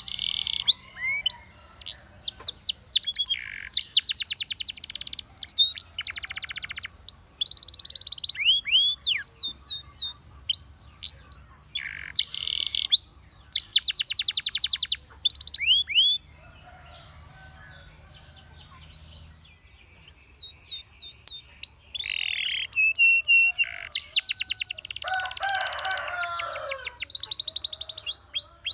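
Domestic canary singing: fast trills of evenly repeated notes alternate with rising and falling whistled notes. The song pauses for about three and a half seconds midway, then starts again.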